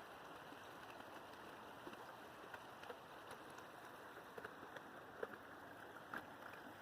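A small brook running: a faint, steady rush of water with a few small ticks and gurgles scattered through it.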